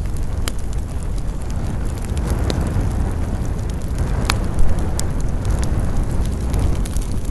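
Campfire burning, with scattered sharp crackles and pops from the burning wood, the loudest a little past four seconds in, over a steady low rumble. Wind rises and falls in the pine trees.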